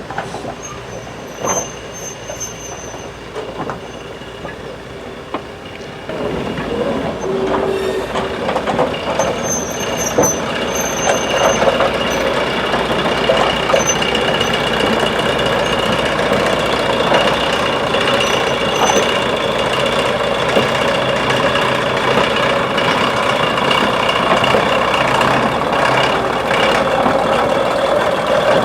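A train running on the line, getting louder about six seconds in and staying loud and steady after that.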